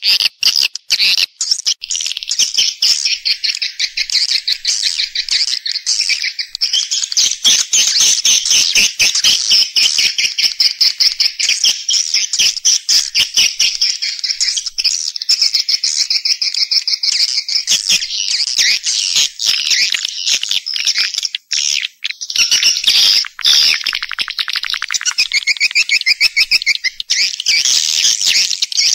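Swiftlet lure-call recording: a dense, unbroken stream of rapid, high twittering chirps from swiftlets, the sound played in swiftlet-farming houses to draw the birds in to roost and nest.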